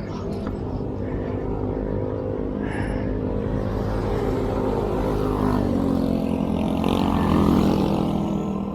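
A motor vehicle engine running, swelling and rising in pitch as it accelerates or passes, loudest near the end.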